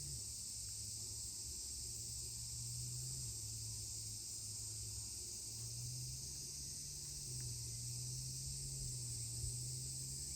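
Steady high-pitched insect chorus. Underneath it runs a low hum that shifts slightly in pitch every few seconds.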